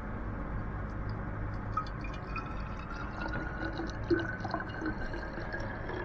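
Vinegar being poured into a narrow bottle: a steady trickle with a faint tone that slowly rises in pitch as the bottle fills.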